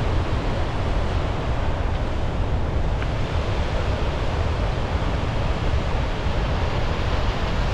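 Steady rushing of Gullfoss, the large waterfall where the Hvítá River plunges into its canyon, with a low rumble of wind on the microphone.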